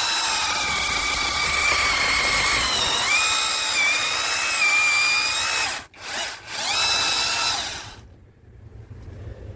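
Yovot 12-inch battery electric chainsaw running with a high motor whine. The pitch dips about three seconds in. It stops about six seconds in, runs again in two short spurts and stops about eight seconds in.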